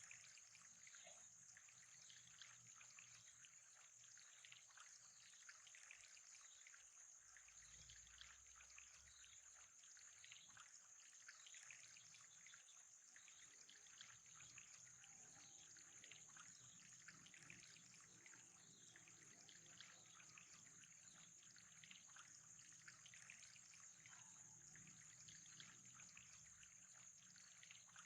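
Faint trickling water: a steady, even patter of small drips and splashes, with a thin, steady high hiss over it.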